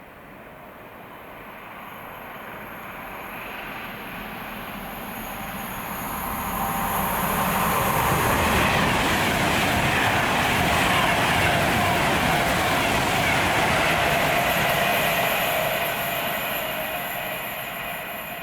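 A train passing on the railway line, growing louder over the first several seconds, running loudly past for about eight seconds, then fading away near the end.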